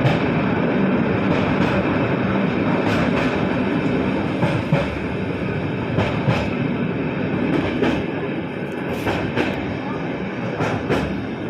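Passenger train running, heard from inside the coach: a steady rumble of wheels on rails, with scattered sharp clicks from the track.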